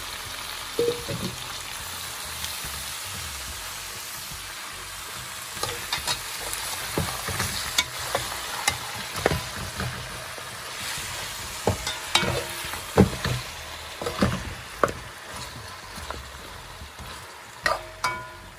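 Beef ribs, onions and peppers sizzling as they brown in a metal pot, with a metal spoon stirring and scraping against the pot. The spoon clicks and knocks more often from about six seconds in.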